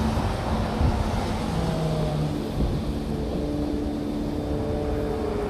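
Steady road traffic: vehicles passing with a mix of engine hums and tyre noise over a low rumble.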